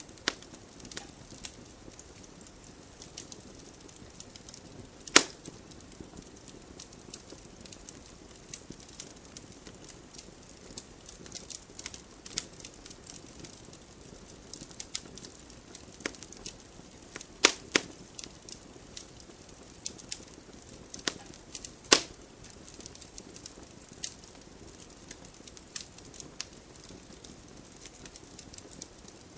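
Wood fire burning in a fireplace: a low steady hiss with frequent small crackles and sharp pops, the loudest about five seconds in, twice around seventeen seconds and once near twenty-two seconds.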